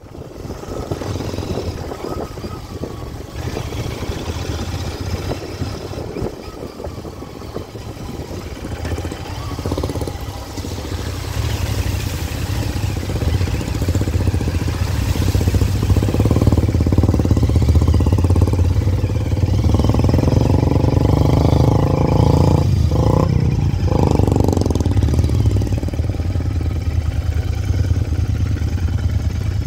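Royal Enfield motorcycle engine running as it rides over a muddy off-road track. It gets louder about halfway through, with the revs held higher for a few seconds near the two-thirds mark.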